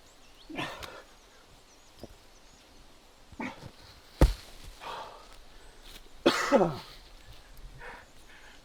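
Short throaty vocal sounds, each dropping in pitch, twice, with a single sharp thump a little past four seconds in, the loudest sound.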